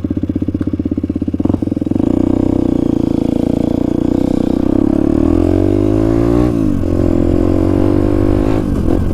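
Motorcycle engine pulling under acceleration. Its pitch climbs for a few seconds, drops sharply at a gear change about six and a half seconds in, then runs steadily.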